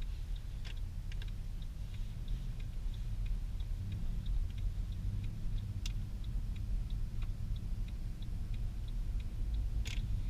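Inside a Mercedes C63 AMG, a steady low engine and road rumble runs under an even ticking of about three ticks a second, typical of the turn-signal indicator. A single sharper click comes about six seconds in and a brief louder noise just before the end.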